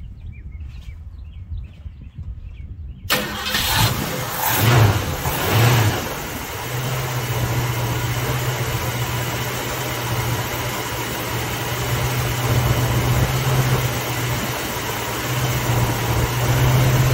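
Ford 289 V8 in a 1966 Mustang starting up about three seconds in, blipped three times at the carburetor, then settling into a steady idle.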